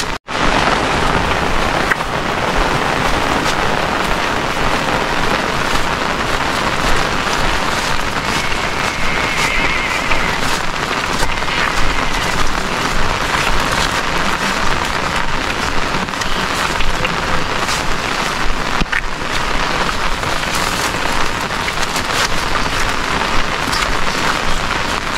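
Steady rain falling, an even hiss with scattered drop ticks; the sound cuts out briefly just after the start.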